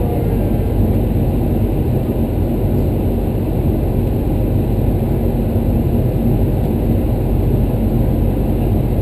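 Steady low rumble heard inside the cockpit of a Boeing 737-300 taxiing after landing, with its CFM56-3 engines at idle.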